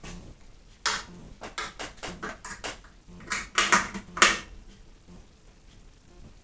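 Handling clatter of an instrument cable and acoustic guitar: a series of sharp clicks and knocks, loudest around three to four seconds in, then quieter.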